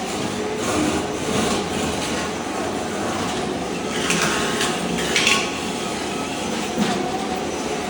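Ride-on floor scraper running, its blade scraping thin-set tile mortar off a concrete slab: a continuous rough scraping and rattling, with harsher grating bursts between about four and five and a half seconds in.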